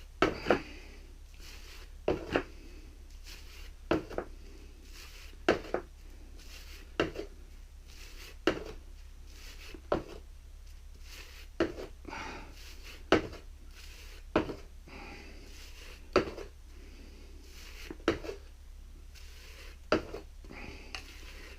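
Hand scraper drawn again and again along a soaked, paint-clogged paint roller, a short scrape with a click about every second and a half, working the paint and water out of the nap.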